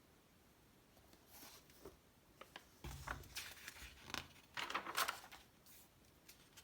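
Magazine pages being handled and turned: soft paper rustles with a light knock about three seconds in and the loudest rustle about five seconds in.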